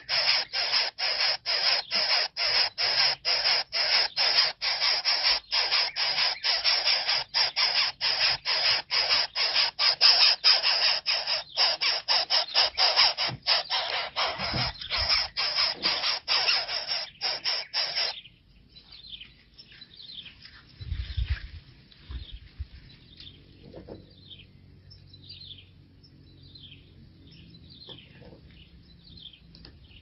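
Harsh, rasping bird calls repeated rapidly, about three a second, that cut off suddenly a little over halfway through. After that there are only faint, short, high chirps that fall in pitch, with a few low thumps.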